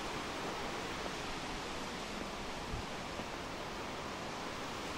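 Steady light rain falling, an even hiss.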